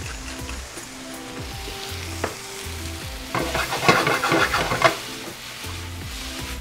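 Vegetables and black beans sizzling in a skillet over a gas flame. A louder burst of sizzling and scraping comes about three and a half seconds in, lasting under two seconds, as the pan is shaken and its contents tossed. Soft background music with a steady bass plays underneath.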